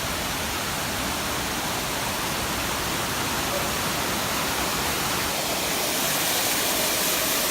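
Waterfall: a steady, loud rush of falling water that grows a little louder and brighter in the last second or two.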